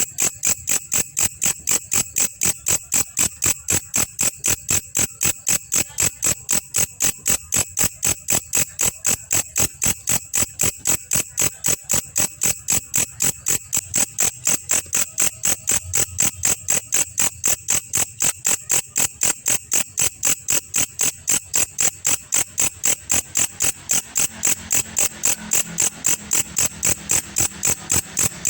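Belalang kecek katydid calling with a steady, evenly spaced train of sharp, high chirps, about three a second.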